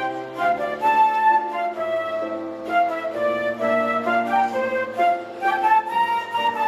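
Elementary school orchestra playing live: a flute-led melody over held middle notes and a low bass line.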